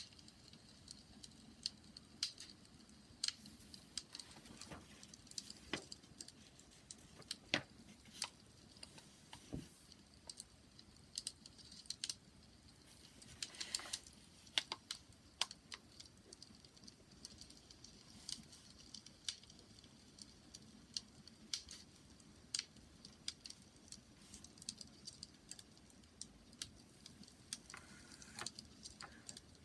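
Wood fire crackling: irregular sharp pops and snaps at uneven intervals over a faint steady hiss, with a brief cluster of crackles about fourteen seconds in.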